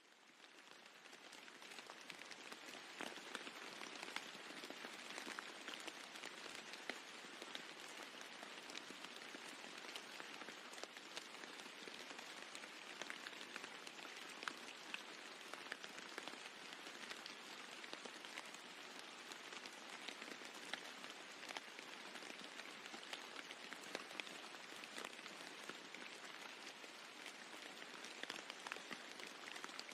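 Steady rain falling on a roof, a dense hiss dotted with individual drops ticking. It fades up from silence over the first few seconds, then holds even.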